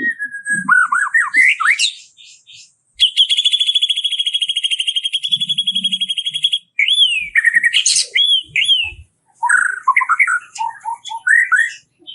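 Small songbird singing a varied, loud song. It starts with gliding whistles, then gives a long, rapid trill of about three and a half seconds, and ends with looping whistled notes and quick chattering phrases.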